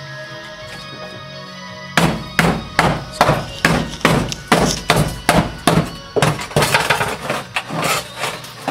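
Rapid hammer blows on a VW Beetle's steel bodywork, sharp knocks at about three a second starting about two seconds in, over background music.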